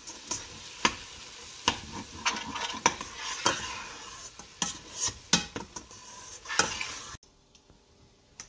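Spiced onion-tomato masala sizzling in oil in a stainless steel pot as a spatula stirs and roasts it after the turmeric and chilli have gone in, the spatula scraping and knocking against the pot every second or so. The sizzle cuts off abruptly about seven seconds in.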